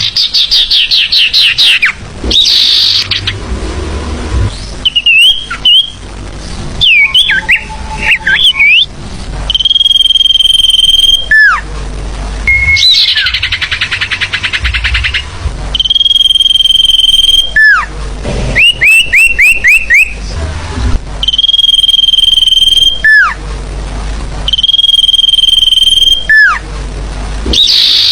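Bird-lure recording of forest bird calls, loud and looping. Long steady whistled notes that drop sharply at the end alternate with fast chattering trills and quick runs of short rising chirps.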